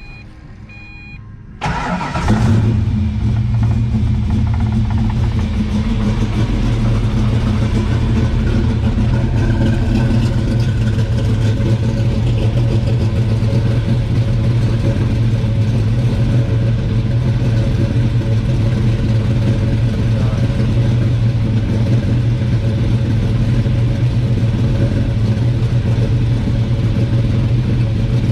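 Ford 347 stroker V8 in a 1991 Mustang, on Holley Terminator X fuel injection, cranking briefly about two seconds in, catching at once and settling into a steady idle. The idle sounds healthy.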